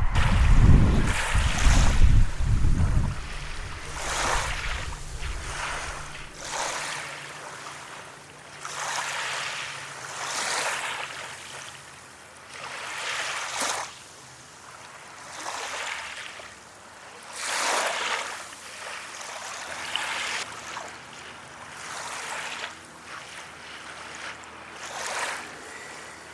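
Waves breaking on a beach, a wash of surf that swells and fades every few seconds. A low rumble, like wind on the microphone, sits under the first few seconds.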